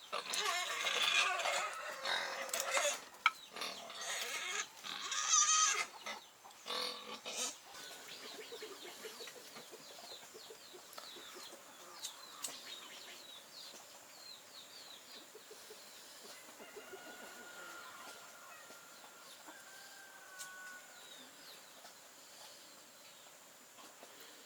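Chickens clucking and squawking loudly for the first several seconds, then a quieter stretch of short high chirps over a steady high insect buzz.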